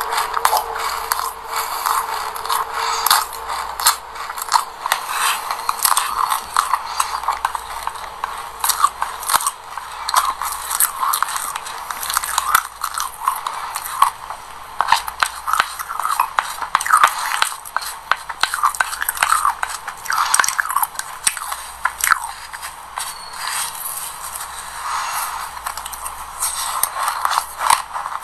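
Close-miked chewing of a mouthful of sesame seeds and passion fruit pulp: a dense, irregular run of small crunches and crackles. A metal spoon also scoops and scrapes in a glass bowl.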